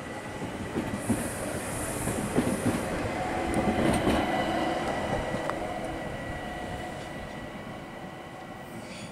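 S-Bahn electric multiple-unit train running past along the platform and pulling away, wheels clicking over rail joints. The sound swells to its loudest about four seconds in, then fades as the train moves off.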